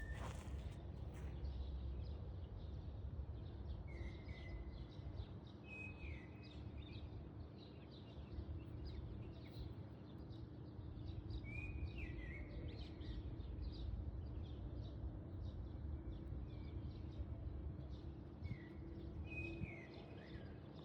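Outdoor ambience: a steady low rumble with a faint hum under it, and a bird giving short chirps every few seconds, each a brief note that flicks downward.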